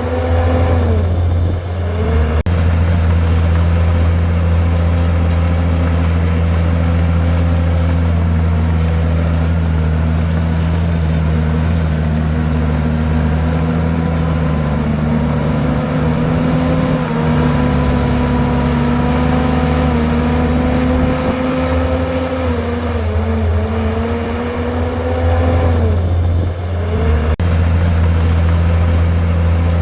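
Komatsu bulldozer's diesel engine running steadily. Its pitch sags and recovers about two seconds in, and again for several seconds in the last third.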